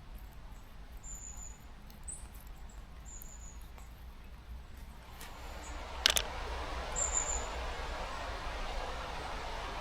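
Short, very high, thin squeaky calls repeating every second or two, typical of a small bird. Underneath is a faint hiss that grows louder about halfway through, and there is one sharp click just after that.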